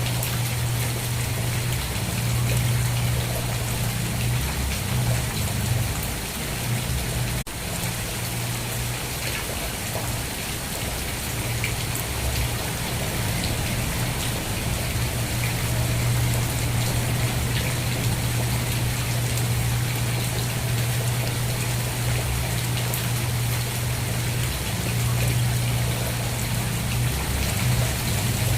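Steady rain falling and pattering on a surface, with a steady low rumble underneath. The sound dips briefly about seven seconds in.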